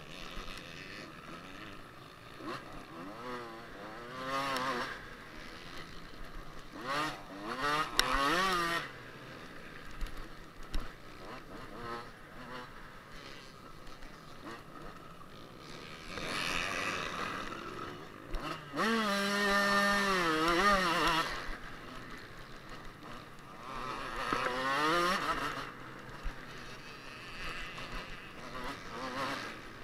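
Kawasaki KX125 two-stroke motocross bike engine revving in repeated bursts, its pitch climbing and dropping as it accelerates and shifts through the gears, the longest and loudest pull about two-thirds of the way through. A steady rushing noise runs underneath.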